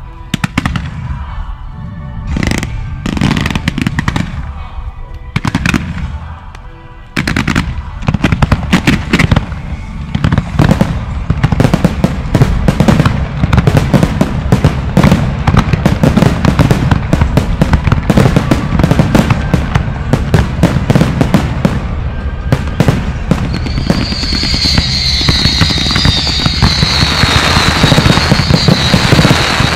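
Aerial firework shells launching and bursting. A few separate bangs come first, then from about seven seconds in a dense, continuous barrage of bursts keeps up. A high wavering sound joins near the end.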